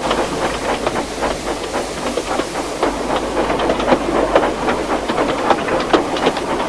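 Steam train running along the track: a quick, irregular clatter of wheels over rail joints over a steady hiss, starting abruptly.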